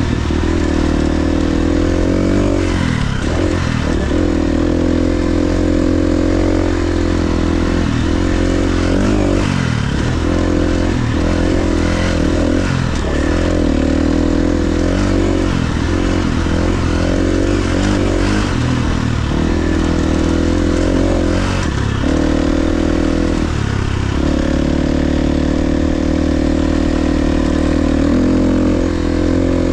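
KTM 350 XC-F dirt bike's single-cylinder four-stroke engine running under way on a trail ride. The engine note drops and picks up again many times with throttle and gear changes, then holds steadier near the end.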